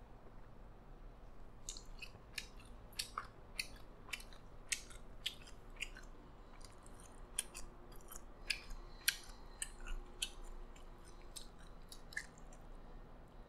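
Close-miked chewing with his mouth full: wet mouth clicks and smacks at an uneven pace of about one or two a second. They begin about two seconds in and thin out near the end.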